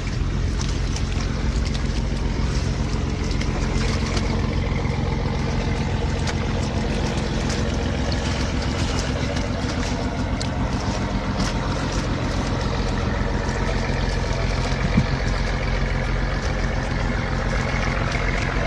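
A steady low engine drone with no break, with a few scattered small clicks over it and one sharp tap about 15 seconds in.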